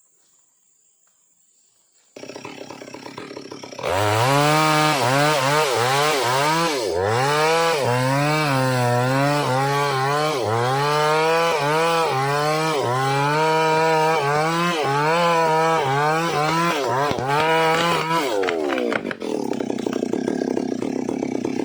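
Stihl MS 382 two-stroke chainsaw running: it idles, then goes to full throttle about 4 seconds in and cuts through wood for some fourteen seconds, its pitch dipping under load and recovering again and again. Near the end the throttle is released and the engine drops back to a lower idle.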